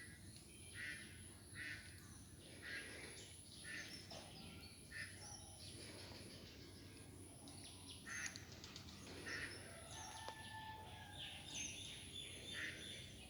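Birds calling outdoors: a run of short calls, roughly one a second, over faint steady background noise.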